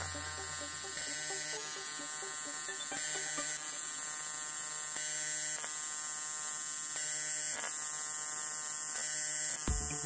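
AC TIG welding arc on aluminum buzzing steadily, run on a 0.5 Hz pulse: about every two seconds the buzz swells for roughly two-thirds of a second at peak current, then drops back to the quieter background current.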